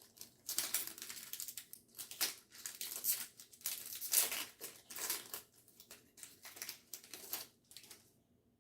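Foil booster pack wrapper crinkling and tearing as a trading card pack is opened by hand, in a string of irregular bursts that stop near the end.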